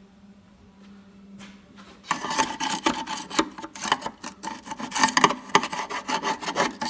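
Rapid, irregular scraping and rubbing that starts suddenly about two seconds in: dirt being scraped off a truck's inner rocker panel down to clean metal.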